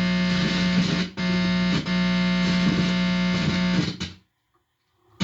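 Guitar amplifier putting out a loud, steady electrical buzz from interference picked up by a guitar cord held near the body, which the uploader takes for directed-energy attacks. The buzz drops out briefly twice, then cuts off about four seconds in.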